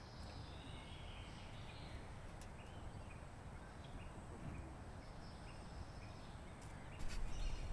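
Outdoor bush ambience: faint bird chirps over a steady background hiss, with a few faint clicks. A louder low rumble comes in near the end.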